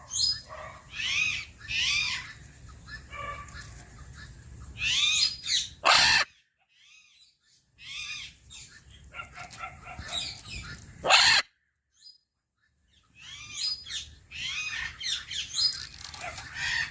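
Macaw squawking: a run of loud, harsh calls that arch up and down in pitch, broken twice by a second or so of silence.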